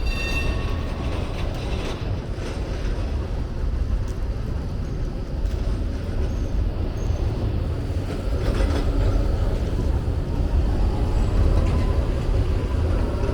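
A rail vehicle running close by with a steady low rumble that grows a little louder in the second half.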